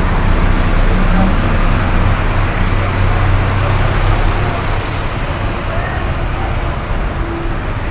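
Steady road traffic noise, a continuous rumble of passing motor vehicles.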